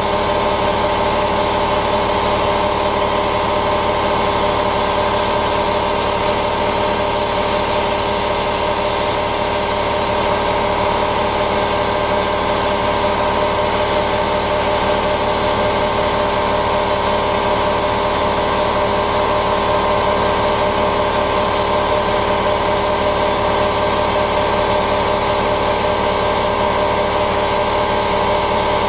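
Paint spray gun hissing over the steady hum of an air compressor. The spray hiss cuts out briefly now and then as the trigger is released.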